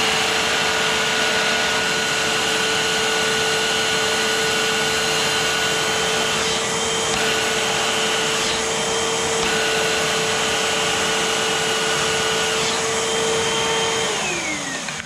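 Eureka multi-cyclonic vacuum cleaner running on a test after its bad bearing was cleaned, a steady motor whine. It is switched off near the end, the pitch falling as the motor spins down.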